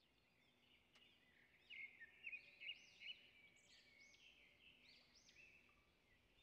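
Near silence with faint bird chirps: a short run of quick, high rising-and-falling calls about two to three seconds in, then a few fainter ones.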